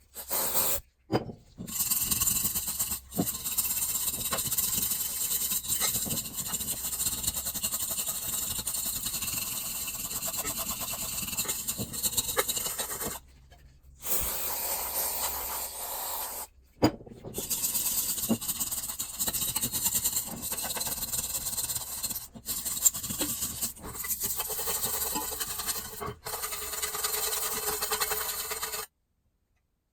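Steady rasping hiss from a workshop tool, in several long stretches broken by abrupt cuts to silence.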